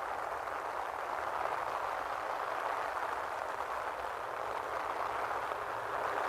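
Steady rain falling, an even hiss of pouring rain that does not change.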